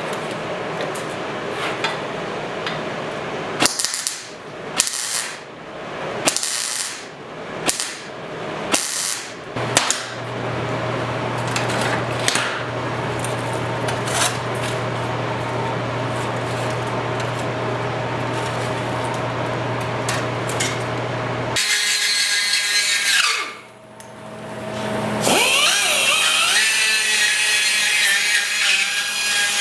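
Handheld power tool working the rusted steel of a motorcycle seat pan, cleaning it back to bare metal for welding. It runs in short spurts at first, then runs steadily, dips briefly, and comes back as a higher-pitched whine for the last few seconds.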